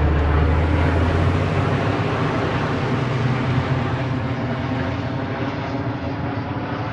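Low engine drone of something passing: it swells just before the start, is loudest in the first couple of seconds, then fades, over a steady background wash.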